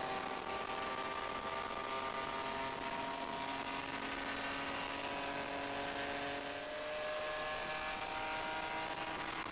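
BMW E30 race car's engine at full throttle down a straight, heard from inside the cockpit, its pitch rising slowly as the car gains speed.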